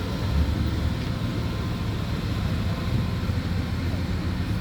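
Steady low rumble of vehicle noise with an even hiss over it.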